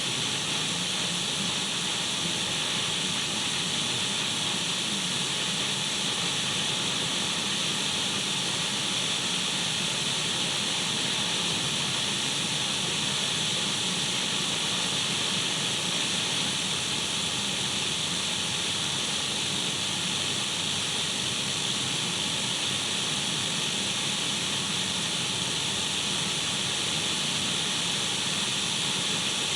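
Untuned radio static: a steady, even hiss, brightest in the upper middle, with a faint low hum beneath.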